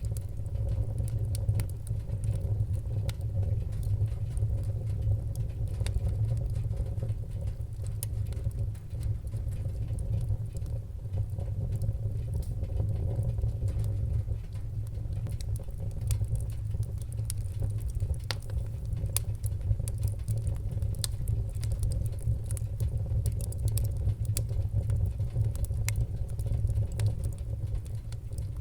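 Wood-burning fire crackling, with frequent sharp irregular pops over a steady low rumble.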